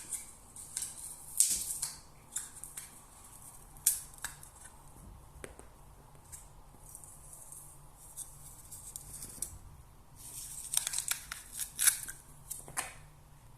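A cat clawing and pulling at something, making irregular scratchy tearing and rustling sounds in short bursts, busiest near the end.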